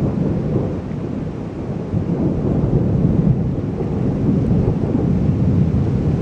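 A long, low rumble of thunder, loud and rolling, swelling and easing without a break.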